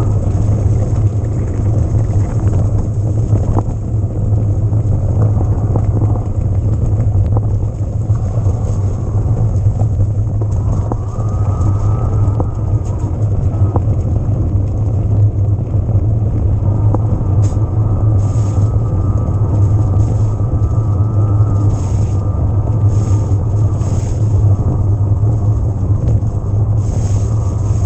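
Steady low rumble of wind and riding noise on the e-bike's camera microphone, with a fainter whine from the Yamaha PW-X mid-drive motor that rises and falls in pitch as the rider pedals.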